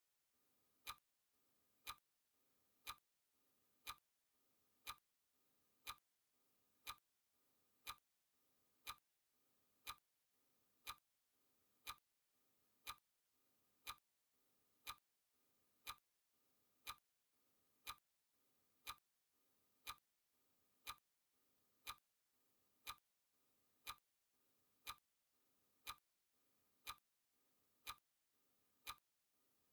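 Clock-like ticking sound effect of a countdown timer: one sharp, quiet tick every second, perfectly regular.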